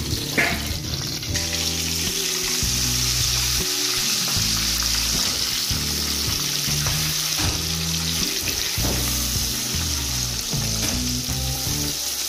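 Pork belly deep-frying in hot oil in a wok: a loud, steady sizzle that comes up strongly about a second in, with background music underneath.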